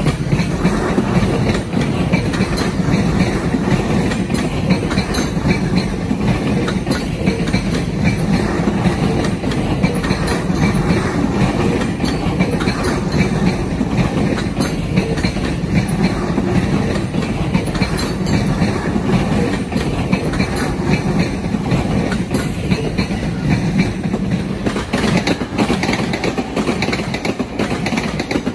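JR East E231-series electric commuter train moving slowly past, with a steady rumble of wheels on rail and irregular clacking as the wheels cross rail joints.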